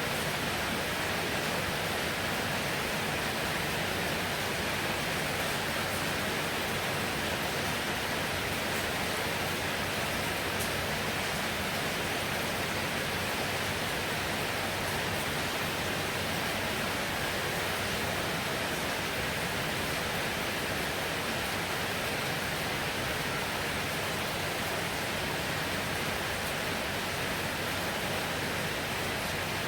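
Heavy rain falling steadily: a dense, even hiss without pause.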